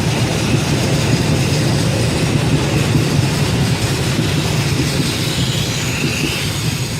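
Passenger train rolling past close by: a steady, loud rumble of its wheels on the rails.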